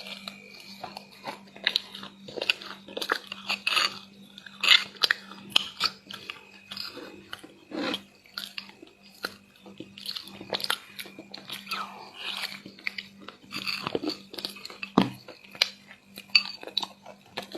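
Close-miked eating of crispy, crumbly chocolate chunks in chocolate paste: irregular crunching and crackling bites and chewing, with a faint steady hum underneath.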